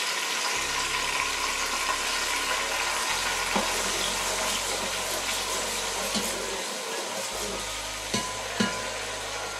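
Blended tomato and chopped onions frying in hot oil in a pot, a steady sizzle as the tomato heats back up to a fry. A spatula stirs through it, with a few light knocks against the pot, two of them near the end.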